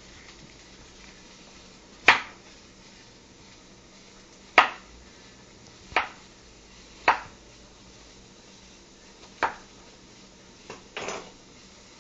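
Kitchen knife chopping onto a cutting board: five separate sharp chops a second or two apart, then a short cluster of lighter knocks near the end.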